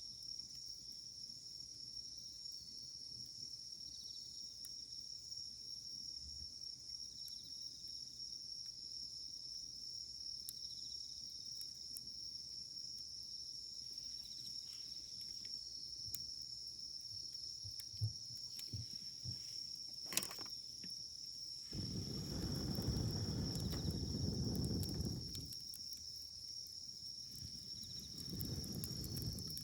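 Wood campfire crackling, with scattered sharp pops and one louder pop about 20 seconds in, over a steady high-pitched drone. A low rushing noise swells for about three seconds shortly after the loud pop, and again near the end.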